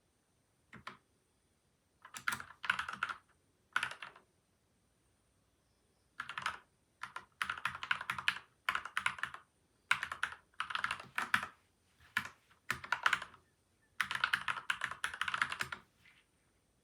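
Typing on a PCL87 mechanical keyboard with lubed Gateron Milky White and Outemu Yellow switches, dampened with tape and foam mods. The keystrokes come in short runs with brief pauses between them and stop shortly before the end.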